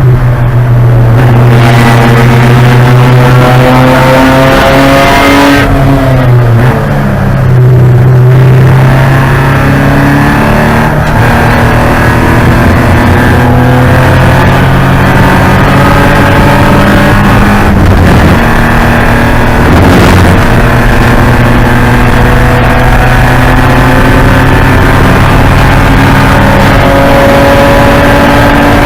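Porsche 944 Spec race car's four-cylinder engine running loud under racing load. Its pitch drops about six seconds in as the car slows, then climbs again several times with short breaks at the shifts.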